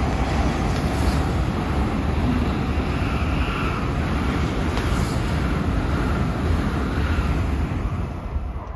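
Tokaido Shinkansen bullet train passing below at speed: a steady rush of wheels on rail and air along the train, fading quickly near the end as the last car goes by.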